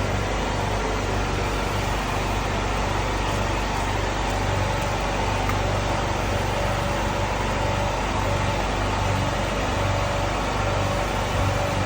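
A motor or engine running steadily, a constant hum with a low drone and a fainter higher tone.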